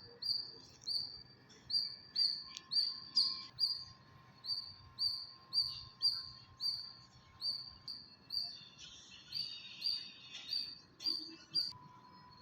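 A bird repeating the same short, high chirp over and over at a steady pace, about two a second, stopping shortly before the end.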